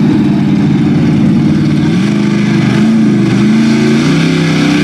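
Lifted Chevy mud truck's engine running hard, with the revs climbing about two seconds in and again a second later, then holding steady.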